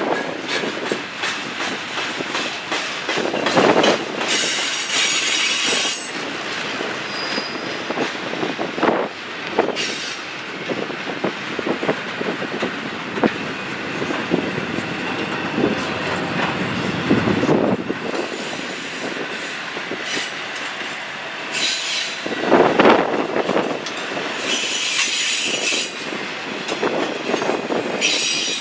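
Railcars of a passing train rolling by, with a fast run of clicks from the wheels over the rail joints. Several brief bursts of high-pitched wheel noise come through now and then.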